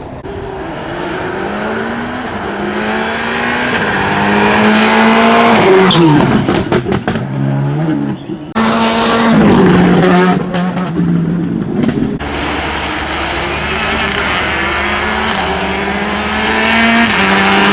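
Rally cars driven hard on a stage: the engine climbs in pitch under full throttle, then drops sharply about six seconds in on a lift-off and downshift. After a break about halfway, a car runs steadily and then climbs in pitch again under full acceleration.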